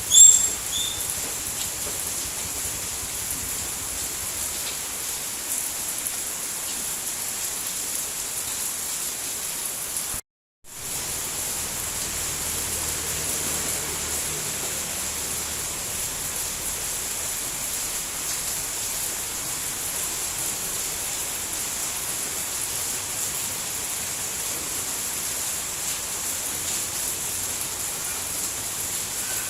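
Steady rain falling, heard as an even hiss with no single drops standing out. A few short high chirps sound right at the start, and the sound cuts out completely for about half a second around ten seconds in before resuming.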